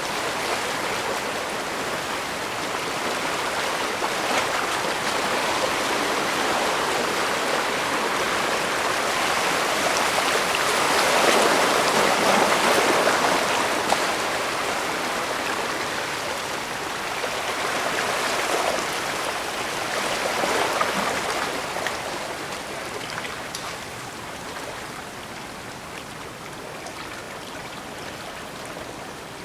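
Small waves of bay water washing and splashing on the shore in a steady rush. It swells louder twice, about a third of the way in and again past the middle, then eases off near the end.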